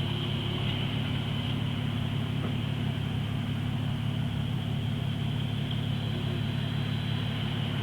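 Car engine idling, heard from inside the cabin as a steady low hum, with a faint steady high whine above it.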